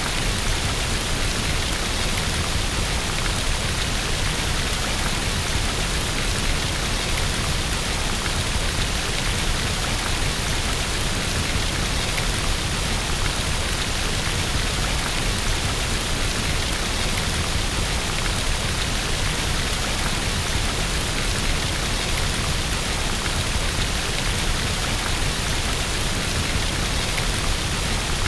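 Steady rain falling on a window: an even, unchanging hiss.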